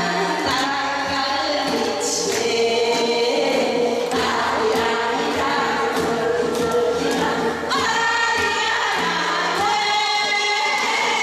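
Several voices singing a song together over amplified music accompaniment with a steady beat.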